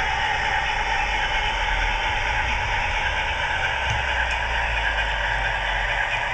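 Hornby Class 60 model locomotive's DCC sound decoder playing a steady diesel engine sound through the model's small speaker, mixed with the running noise of the model on the track.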